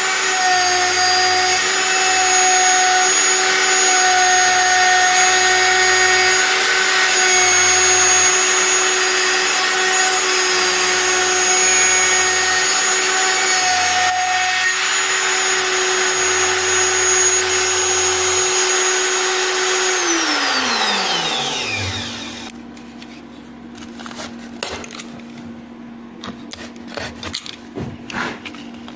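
Router spindle of a home-built CNC router running with a steady high whine and a hiss of cutting. About 20 s in it spins down, its pitch falling away over two seconds. Scattered clicks and ticks follow.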